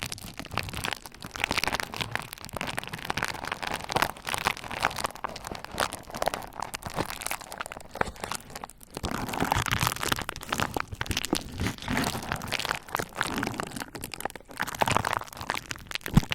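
Bubble wrap crackling and popping under a roller: a dense, unbroken stream of small crackles and snaps.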